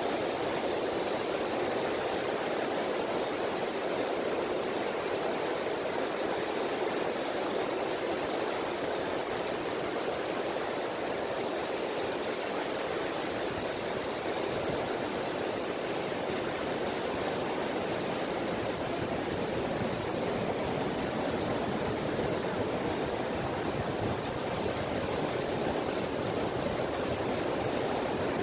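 Gentle ripples of a calm sea washing on a beach, a steady, even wash of water with no distinct breaking waves.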